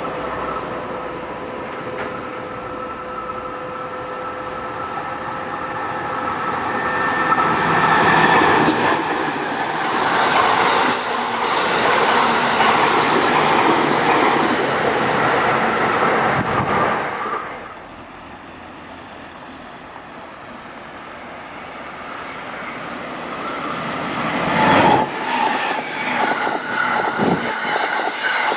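JR Kyushu 787 series electric express train passing at speed, wheels clattering over the rails, swelling and fading over about ten seconds. After a sudden drop in level, a second pass rushes by near the end with sharp rail clicks.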